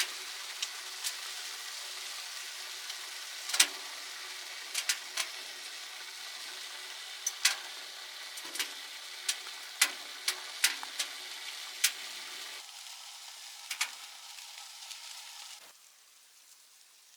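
Food frying in a pan, a steady sizzle with sharp spattering pops. It thins about three-quarters of the way through, then stops abruptly shortly before the end.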